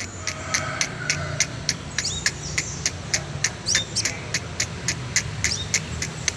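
Crimson sunbird calling: a rapid, even series of sharp, high chips, about three or four a second, with a couple of short falling notes mixed in. A steady low hum runs underneath.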